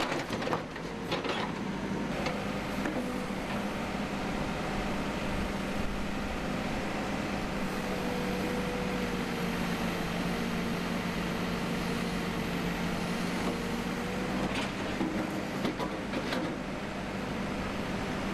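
Backhoe's diesel engine running steadily, with a few knocks about a second in and again near the end.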